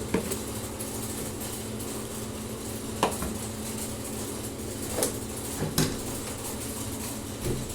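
Dishes and kitchenware being handled: a handful of separate sharp clinks and knocks, a second or two apart, over a steady low hum.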